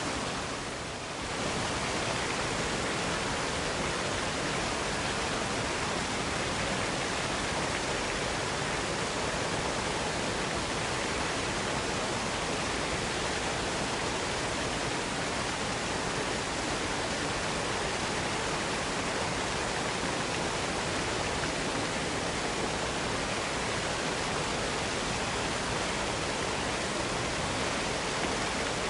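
Cascading waterfall: a steady, even rush of falling water, dipping briefly in level about a second in.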